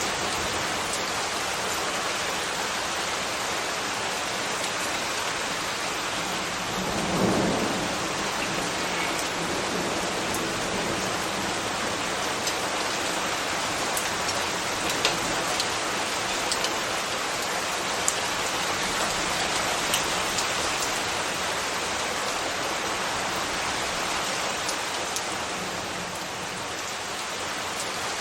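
Steady rain falling, with scattered drops ticking. There is a brief low swell in the sound about seven seconds in.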